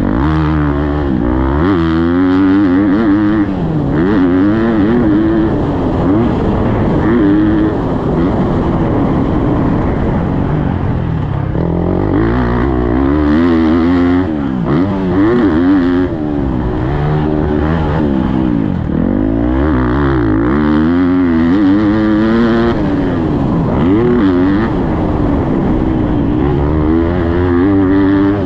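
Motocross bike engine on track, revving hard and falling off again and again as the rider accelerates, shifts and rolls off for corners and jumps.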